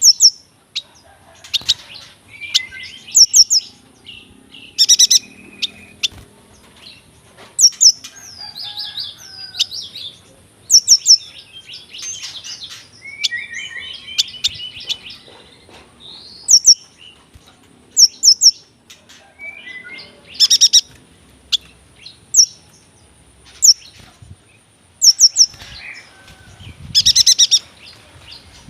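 Yuhina singing: a long run of high, quick chirps, short rolling trills and repeated phrases of three or four sharp notes, with short pauses between phrases.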